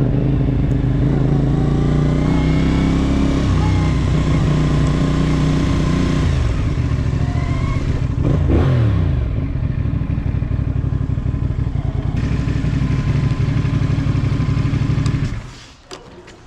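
CFMOTO 450SS motorcycle's parallel-twin engine under way, its note rising and falling with the throttle and gear changes, with wind noise over it. The sound stops abruptly about a second before the end.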